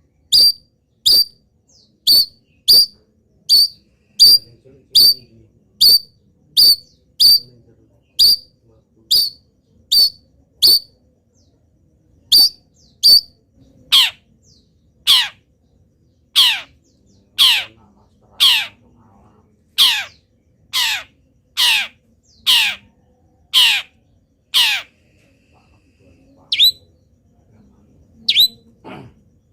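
Long-tailed shrike calling in a steady series of short, sharp, high notes about one a second. About halfway through these change to longer notes that fall steeply in pitch. After a short pause near the end, a few more calls follow.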